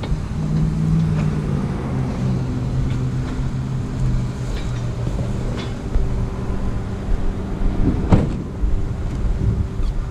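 Car engine running steadily with a low hum, and a sharp clank about eight seconds in.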